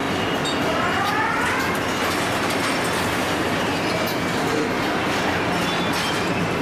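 Steady mechanical rumble and clatter with scattered clicks, and rising metallic squeals about a second in.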